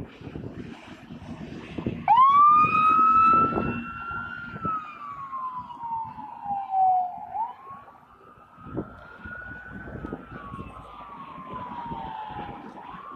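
Police car siren in a slow wail. It starts abruptly about two seconds in with a quick rise in pitch, then falls slowly, rises again and falls once more, over a steady rumble of street noise.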